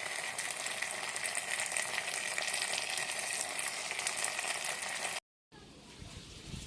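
Food sizzling steadily in hot oil, ending abruptly about five seconds in. After a brief gap comes a much quieter stretch with a few faint low knocks.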